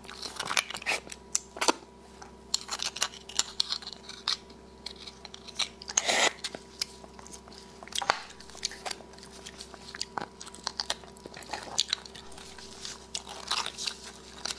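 Close-miked chewing of soft braised beef bone marrow: irregular wet mouth clicks and smacks, the loudest about six seconds in.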